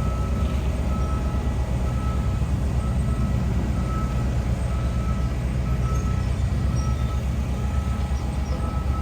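Bulldozer's diesel engine running steadily under load while its reversing alarm beeps repeatedly, a little more often than once a second, fainter than the engine.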